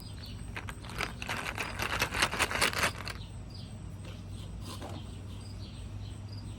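A makeup bag packed with lip glosses being handled: about two seconds of dense, rapid rustling and clicking starting about a second in, then quiet with faint repeated chirps behind.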